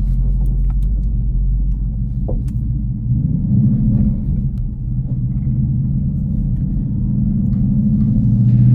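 2017 Ford Mustang GT's 5.0-litre V8 engine and exhaust running during a drive, the engine note rising around three seconds in and climbing again near the end.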